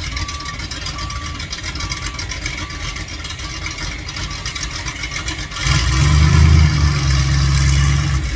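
Monster truck engine running low, then revved hard about halfway through and held at a steady high pitch for a few seconds. Over the first half, a run of evenly spaced high beeps.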